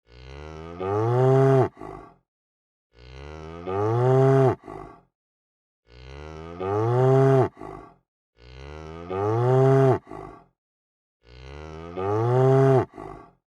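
A cow mooing five times in a row, the same call repeated about every three seconds. Each moo starts quiet, swells louder with a rise and then a fall in pitch, and ends with a short grunt.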